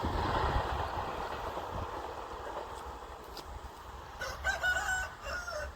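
Rumble of a just-passed train slowly dying away, then a rooster crowing once, loudly, about four seconds in.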